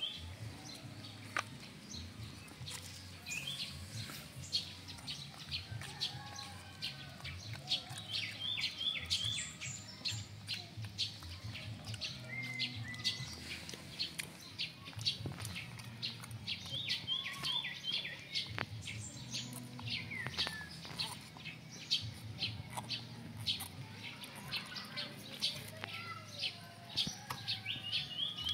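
Small birds chirping continually, many short chirps with a quick three-note call repeating every several seconds.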